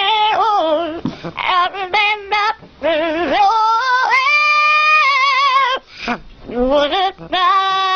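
A parrot singing a song in a mimicked human voice: warbling phrases with a strong wobbling vibrato, broken by short pauses. About four seconds in it holds one long, steady note.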